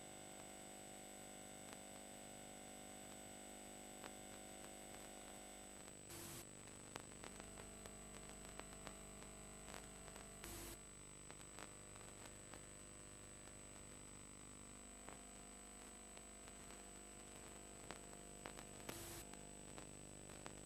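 Near silence: faint hiss and hum from VHS tape playback, with a steady high-pitched whine and a few brief crackles.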